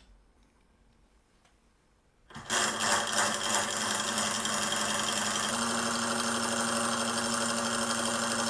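Miniature model solenoid aircraft engine starting up about two seconds in and running fast with a dense mechanical buzz, which settles into a steadier, even hum about halfway through.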